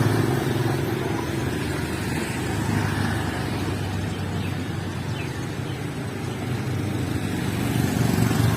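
Motor traffic: vehicle engines running steadily with road noise.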